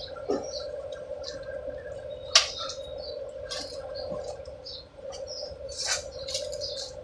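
Small birds chirping in short, scattered calls over a steady hum. There is a sharp click about two and a half seconds in and another near six seconds.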